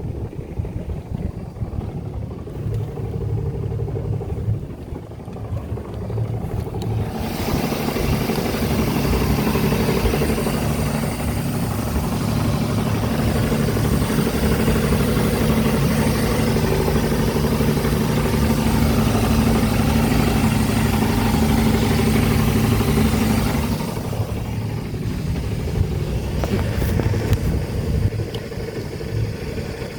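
Volvo Penta 4.3GL-E V6 marine engine running with a knocking noise. It runs louder about seven seconds in and drops back a few seconds before the end.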